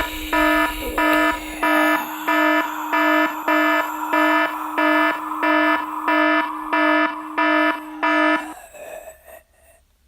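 Electronic alarm beeping: a loud, low-pitched, buzzy beep repeating evenly about one and a half times a second, about a dozen times, then stopping near the end.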